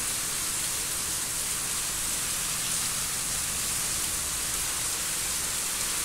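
Steady rain falling outside, an even hiss that does not let up.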